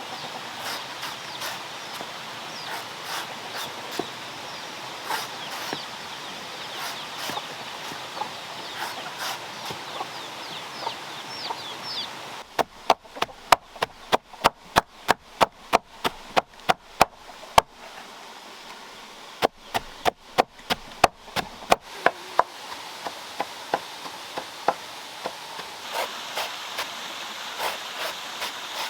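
A run of sharp knocks, about three a second, starting about twelve seconds in, breaking off briefly near eighteen seconds and stopping about twenty-two seconds in. Before that, a steady rushing noise with birds chirping.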